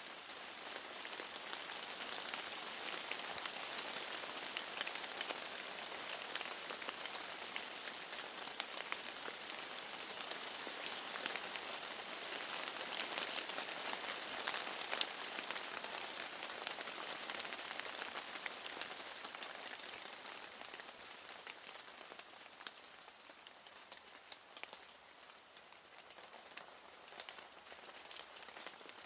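Steady rain with many distinct drops tapping against a window, easing off slightly near the end.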